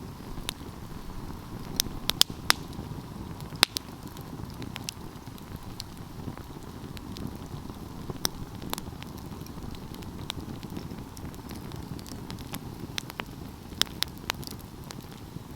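Wood fire burning with a steady low rush of flames and irregular sharp crackles and pops from the burning pine wood, several in a cluster near the end.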